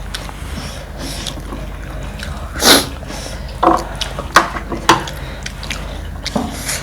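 Mouth sounds of someone eating spicy panipuri: one loud short sucking intake about two and a half seconds in, then a brief hum and a few sharp clicks from chewing.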